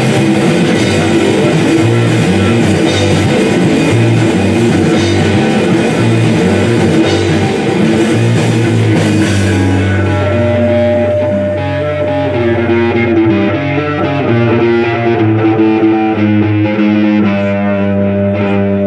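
Live rock band playing, with electric guitar, bass and drum kit. About halfway through, the drums and cymbals drop out, leaving guitar and bass notes ringing on.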